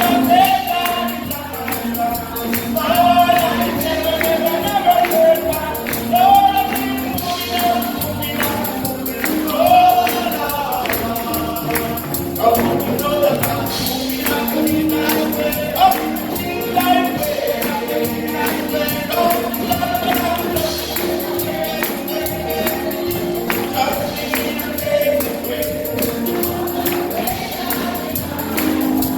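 Congregation singing a lively gospel chorus together, with a tambourine shaken and struck in time.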